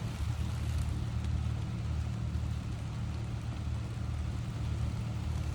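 Gentle rain falling as a faint, even hiss over a steady low rumble that is the loudest part of the sound.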